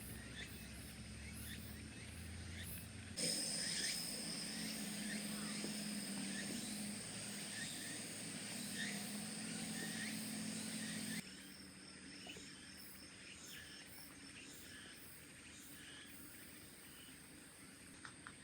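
Outdoor campsite ambience with insects chirping steadily in a high, thin tone. The sound changes abruptly twice where shots are cut, and the louder middle stretch carries a low steady hum.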